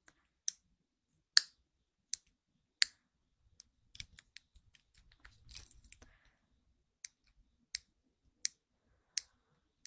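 Fidget cube being clicked: single sharp plastic clicks, about one every 0.7 seconds, with a soft handling rustle in the middle.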